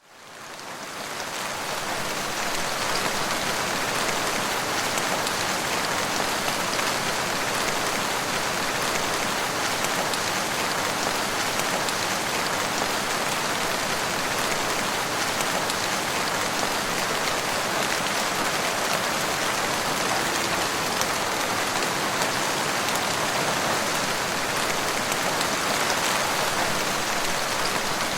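Steady rain falling, a dense even hiss with fine drop patter, fading in over the first two seconds and then holding level.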